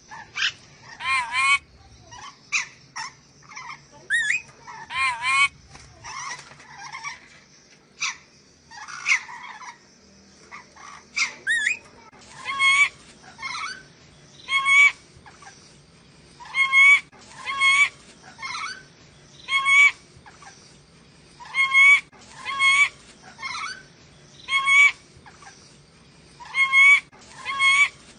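Nuri dora, a Sulawesi parrot, giving loud repeated calls. For the first dozen seconds the calls are varied and irregular. After that they settle into a steady series of about one call a second, some in close pairs.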